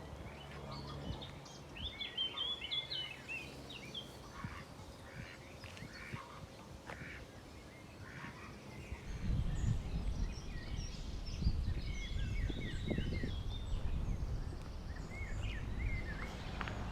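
Several birds chirping and singing in short repeated phrases. About halfway in, a low rumble comes up under the birdsong and stays.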